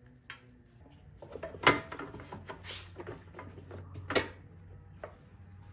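Metal tools and bolts clinking and knocking against the mower's metal parts as the bolts are started back in by hand: a handful of separate knocks, the loudest about a second and a half in, over a faint low hum.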